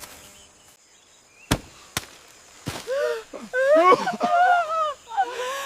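Two sharp knocks about half a second apart, then loud wordless human vocal sounds whose pitch swoops up and down.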